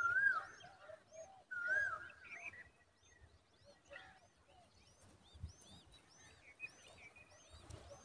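Birds calling: two loud, wavering whistled notes in the first two seconds, with softer lower calls, over many short, thin, high chirps repeated all through.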